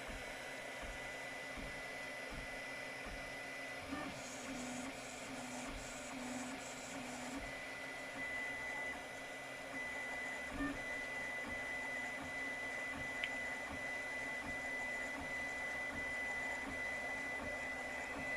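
3D printer printing, fitted with a home-built direct drive extruder driven by an RC servo: a steady mechanical whir with a thin high whine. About four seconds in, a run of five short repeated notes joins it as the moves change.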